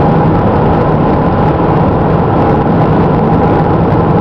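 Steady road and engine noise inside a moving car at highway speed, an even rumble of tyres and engine with no change.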